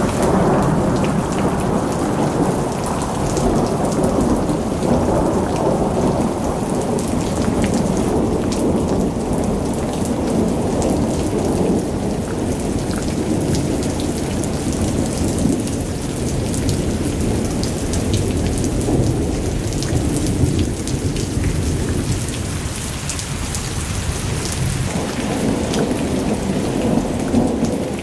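Thunderstorm: heavy rain falling with thunder rolling and rumbling almost without pause. The rumble eases a little past twenty seconds in and swells again near the end.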